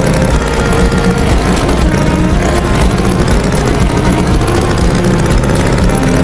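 Tractor engine running steadily and loudly, a low continuous engine rumble.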